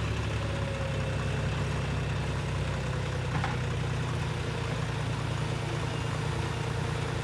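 Heavy diesel engine running steadily at low revs, with one brief click about three and a half seconds in.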